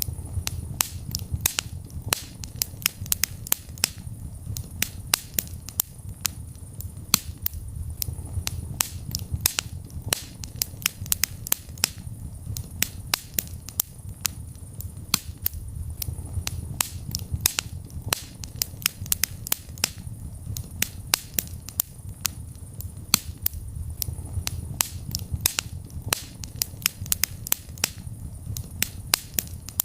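Wood fire burning in a fireplace, crackling with many sharp irregular pops, several a second, over a low rumble of the flames.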